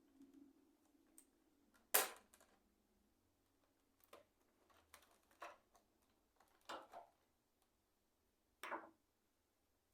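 Sharp clicks and knocks of keyboard parts being handled and taken apart: one loud click about two seconds in, then a handful of quieter clicks spread over the rest.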